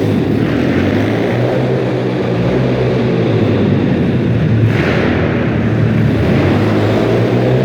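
Pit bike's small single-cylinder engine running steadily as it is ridden, with a slight waver in pitch.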